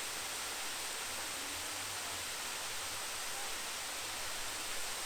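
Steady, even rush of water falling at the Great Waterfall in Sofiyivka Park.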